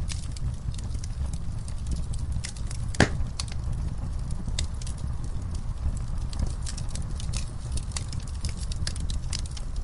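Campfire burning with a steady low rumble and irregular crackles and pops of the burning wood, one louder sharp pop about three seconds in.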